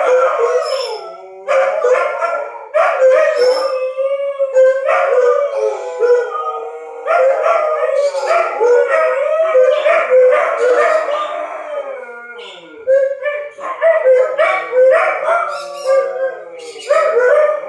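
Several dogs howling in repeated, overlapping bouts a second or two long, set off by the wail of a tornado siren test.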